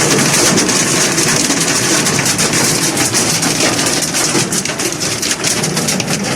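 Heavy rain pouring steadily in a thunderstorm, a dense hiss of many drop impacts.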